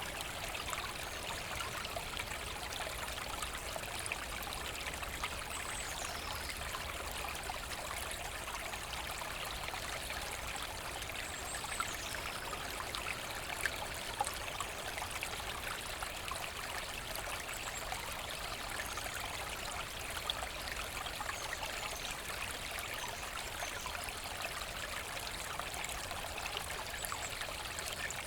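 Forest brook flowing and trickling steadily, a continuous even rush of water.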